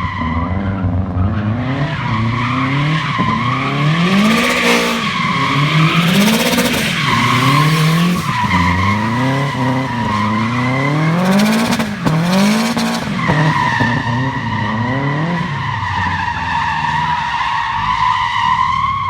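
Turbocharged rear-wheel-drive Subaru drifting: the engine's revs rise and fall over and over, about once a second, while the tyres squeal in a steady high tone. The squeal is strongest near the end.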